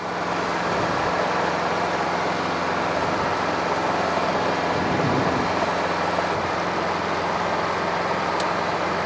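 Robinson R22 Beta helicopter's piston engine and rotor running steadily, heard from inside the cockpit as an even noise with a constant low hum.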